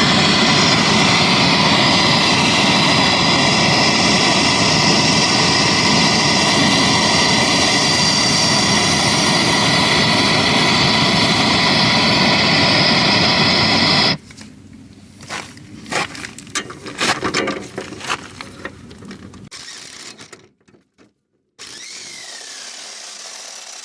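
A loud motor running steadily, then stopping abruptly about fourteen seconds in, followed by scattered knocks and clinks of metal.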